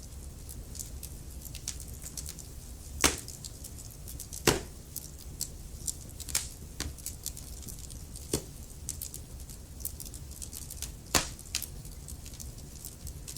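Wood fire burning in a fireplace: a steady low rumble of flames with frequent small crackles and a few loud sharp pops, the loudest about three seconds in, about four and a half seconds in, and about eleven seconds in.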